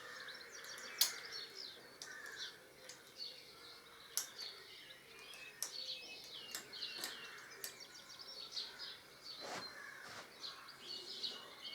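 Small birds chirping and twittering faintly in the background, with a few light clicks and knocks scattered through.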